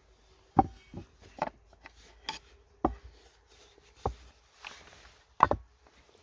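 Irregular knocks and clunks of camping gear being handled and set down, about seven in six seconds, the loudest near the start and near the end.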